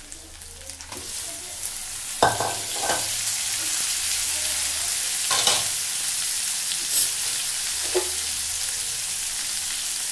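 Chicken livers sizzling in hot oil with fried onions in a pan, the sizzle swelling about two seconds in as the livers go in. A few short knocks and scrapes of a spatula against the pan.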